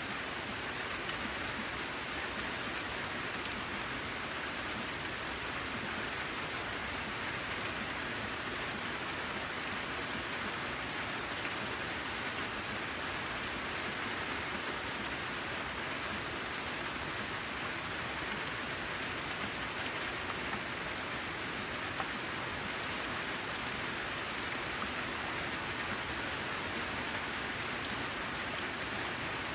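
Steady, even rain falling, with no let-up or change in strength.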